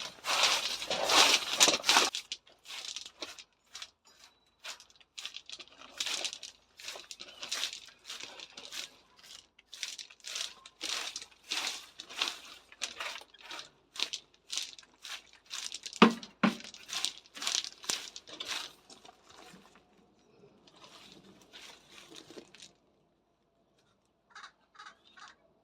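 Rustling and crackling of leaves and stems being pulled and handled in a series of short strokes, about two a second, with a sharp knock about two-thirds of the way through, fading out near the end.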